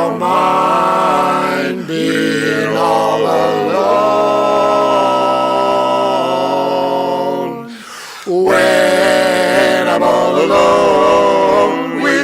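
A cappella vocal group singing in close harmony without accompaniment, holding long sustained chords; one long held chord breaks off near eight seconds, and the singing starts again a moment later.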